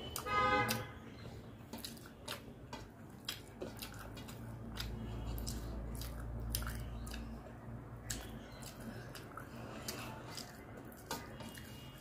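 Close-miked wet chewing and lip smacks of rice mixed with curry eaten by hand, with scattered clicks of fingers scraping grains off a stainless steel plate. A brief hum comes about half a second in.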